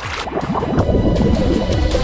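Background music over a dense bubbling and gurgling of water as a scuba diver goes under, with many short rising bubble sounds.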